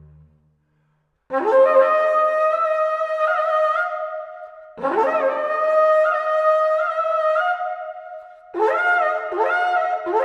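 Carnyx, the Celtic bronze war trumpet, sounding three long blasts after a brief pause. Each blast starts with a rising scoop and then holds a loud, buzzing tone that steps between a few pitches.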